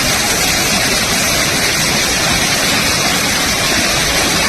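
Fast-flowing floodwater rushing past, a loud steady sound of water without a break.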